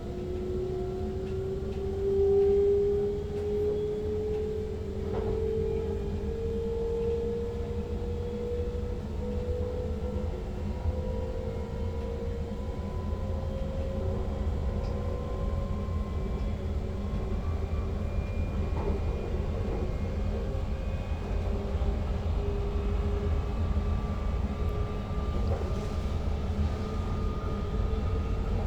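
Electric multiple unit's traction motors whining over the steady rumble of the train running on the rails, the whine climbing slowly in pitch as the train gains speed.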